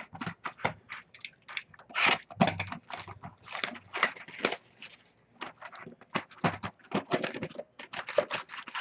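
Foil trading-card pack wrappers being torn open and crinkled, with cards handled in between: a quick, irregular run of crackles and rustles.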